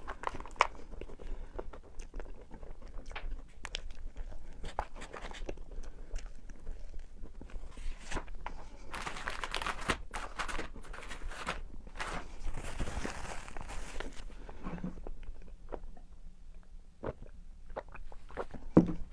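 Close-miked eating: bites and chewing with many small clicks and mouth noises, and two longer noisy stretches about nine and thirteen seconds in.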